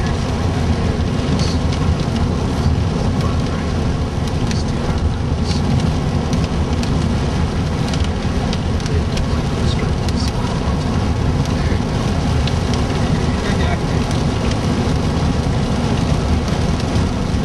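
Rain with small hail beating on a vehicle's roof and windshield, heard from inside the cabin: a steady dense hiss scattered with sharp little ticks, over a continuous low rumble.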